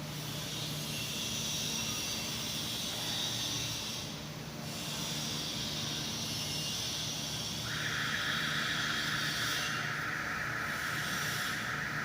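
Steady hissing that stops briefly about four seconds in, joined by a second, lower hiss about two thirds of the way through, over a faint low steady hum.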